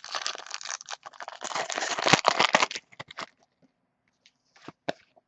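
Trading cards being handled: a dense rustle of cards and packaging for about three seconds, loudest near the end of it, then a few light clicks.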